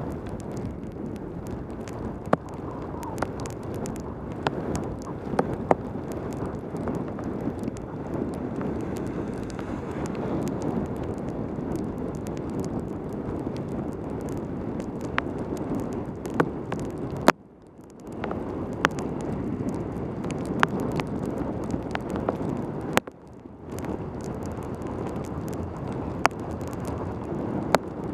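Wind rushing over a helmet camera's microphone on a fast bicycle descent in heavy rain, with many sharp ticks scattered throughout. The rushing drops away suddenly twice, about two-thirds of the way in and again a few seconds later, then comes back.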